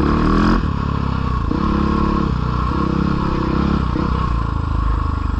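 Dirt bike engine running on a trail, the throttle opened in three short bursts of about a second each over a steady low rumble, the pitch shifting within each burst.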